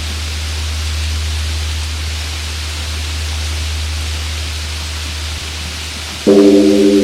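Steady rain hiss over the low, lingering hum of a large Korean Buddhist temple bell. Near the end the bell is struck again and rings out with several deep sustained tones.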